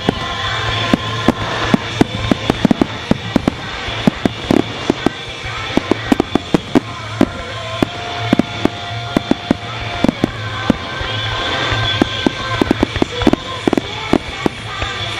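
Aerial firework shells bursting in a rapid, irregular run of sharp bangs, several a second at times, with music playing underneath.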